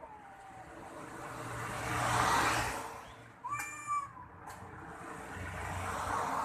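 A vehicle passes, growing louder and then fading. About three and a half seconds in, a cat gives one short yowl, a call of the kind cats make when squaring off to fight.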